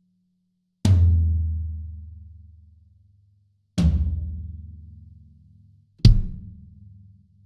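Three single strokes on a low tom of a Yamaha Absolute Hybrid Maple drum kit with factory heads, spaced about three seconds apart. Each stroke is left to ring out with a low, pitched decay. The third is a deeper thump that dies away sooner.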